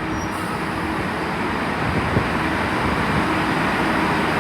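Class 165 diesel multiple unit running into the platform: a steady rumble of engine and wheels on the rails that slowly grows louder as it comes in.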